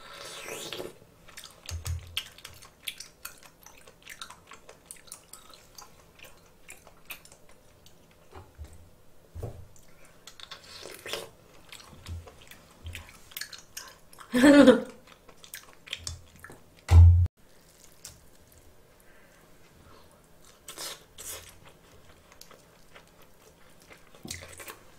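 Close-miked chewing and eating: wet mouth clicks and smacks, scattered through, with a brief vocal sound about halfway and a loud low thump a few seconds later.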